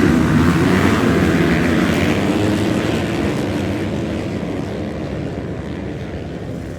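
Several motocross dirt bike engines at racing revs, loudest at the start and then gradually fading as they pull away.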